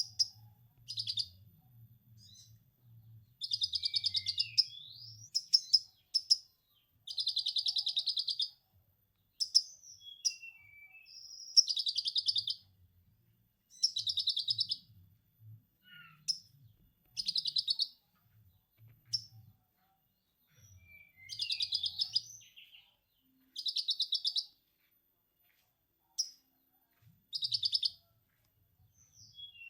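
Konin songbird singing a run of fast, buzzy chattering phrases in the style of a lovebird's 'ngekek'. Each burst lasts about a second and they come one after another with short pauses.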